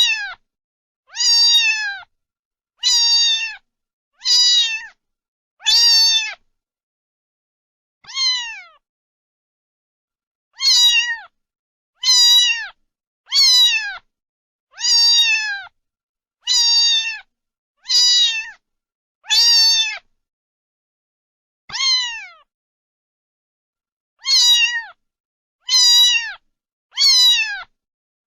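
A cat meowing over and over, about sixteen high meows, each falling in pitch at the end, separated by short silences, with a couple of longer pauses of two or three seconds.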